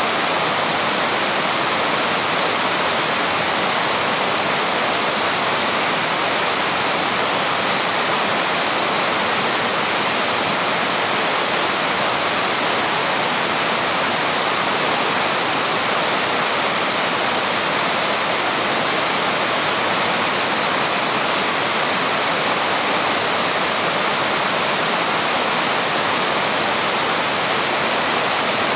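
Waterfall: water pouring and splashing as a steady, unbroken rush of white water.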